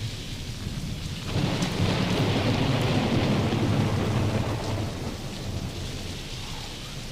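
Steady rain with a rolling thunderclap. The rumble breaks in suddenly about a second in, stays loud for about three seconds, then dies away under the rain.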